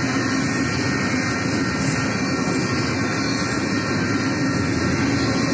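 Double-stack intermodal freight train rolling steadily through a grade crossing, its wheels running on the rails, while the crossing's electronic bells (a WCH Type 2 and a General Signals Type 3) ring throughout.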